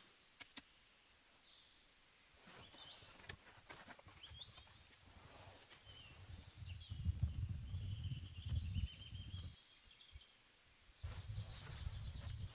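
Small birds chirping now and then, with scattered sharp clicks. A low rumble comes in about halfway through, drops out briefly around ten seconds in, then returns.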